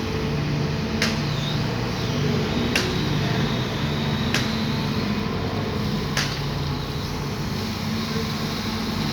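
Sumitomo SH210 excavator's diesel engine running steadily under work, with a sharp click about every second and a half to two seconds.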